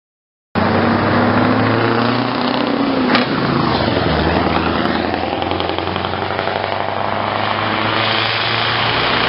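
Scania 143M 500's V8 diesel engine running loud and steady, its pitch sagging slightly into a single sharp click about three seconds in.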